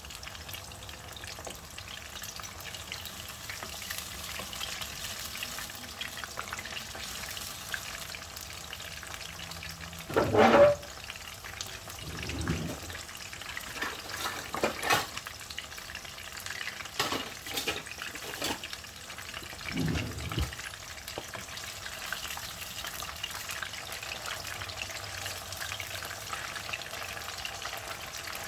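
Chicken pieces coated in corn flour deep-frying in hot oil in a wok, a steady sizzle. Several short louder sounds break in over the middle, the loudest about ten seconds in.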